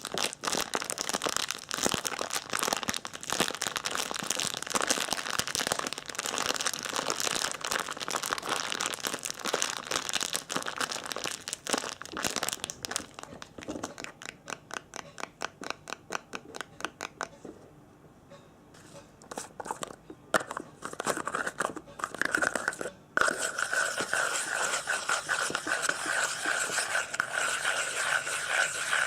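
Close-miked crinkling and crackling of handled material, dense at first. It thins to separate taps past the middle, then gives way to a steadier hiss from about three-quarters of the way in.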